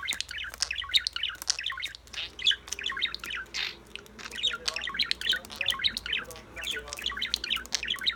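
Pet budgerigars chattering and warbling without a break: a dense stream of rapid chirps and squawks.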